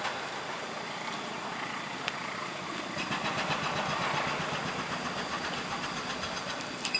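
Passenger train coaches rolling across a steel truss bridge: a steady rumble of wheels on rail, with faint repeated clicks from the wheels over the track.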